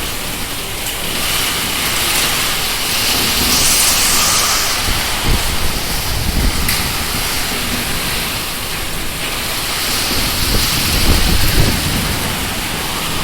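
Heavy storm rain pouring down steadily in a hiss, with deep rumbles swelling about five seconds in and again near eleven seconds.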